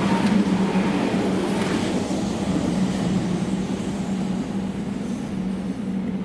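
A train running past with a steady low hum over track noise, gradually fading.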